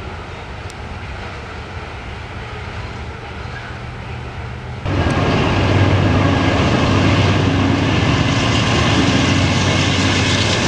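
Freight hopper cars rolling past on the rails with a steady rumble. About five seconds in, a sudden cut to the louder, steady low drone of two BNSF GE C44-9W diesel locomotives running past.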